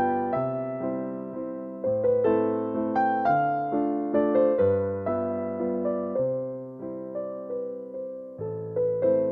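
Slow, gentle piano music: soft chords over a bass note that changes about every second or two, with a simple melody on top, each note struck and left to fade.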